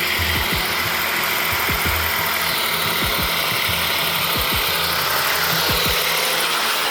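A loaded logging truck's engine running steadily, mixed with background music.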